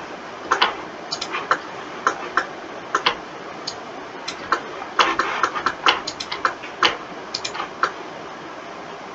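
Irregular clicking of a computer mouse and keyboard, a few sharp clicks a second, some in quick clusters, over a steady background hiss.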